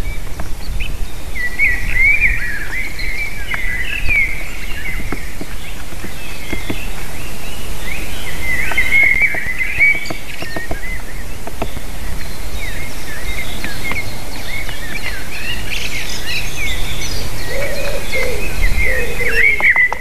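Several small birds chirping and twittering in quick, busy phrases, over a steady low rumble of wind on the microphone. Lower call notes join near the end, along with a few sharp clicks.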